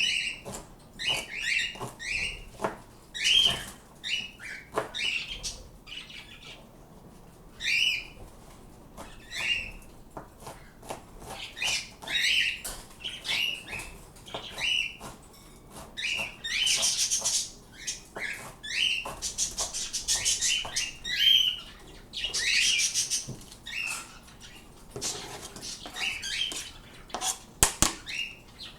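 Pet parrots calling over and over in short chirping calls, broken by several longer harsh screeches a little past the middle.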